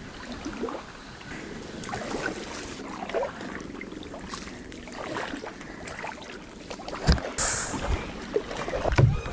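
Kayak paddle working through calm water: light splashes and drips off the blades, with low wind buffeting on the microphone near the end.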